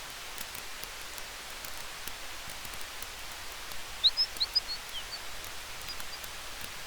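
Campfire ambience: a steady hiss with faint, scattered crackles of burning wood, and a quick run of high bird chirps about four seconds in.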